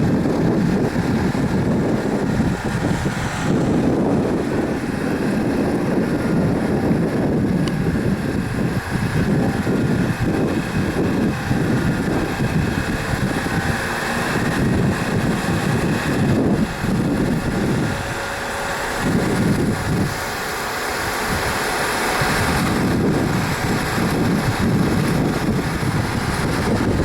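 Regional electric train running: a steady low rumble with rushing noise that ebbs briefly about two-thirds of the way through.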